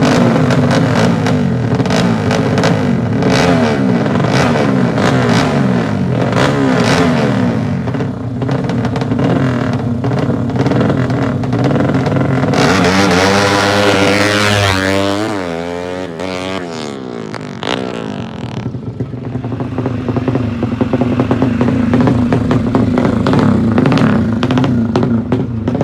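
Motorcycle engines revving hard with a crackling exhaust. About halfway through, a bike sweeps past with a sliding pitch. The sound then settles into a steadier, lower engine note.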